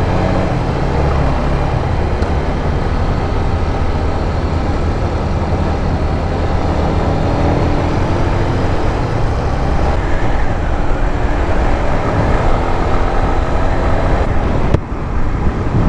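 Riding noise from a 150cc motorcycle at road speed: a steady rush of wind over the microphone with the engine running underneath. It goes briefly quieter about a second before the end.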